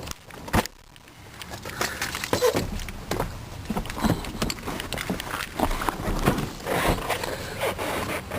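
Handling noises at the truck's rear door and cab: a sharp click about half a second in, then an irregular run of clicks, knocks and rustling.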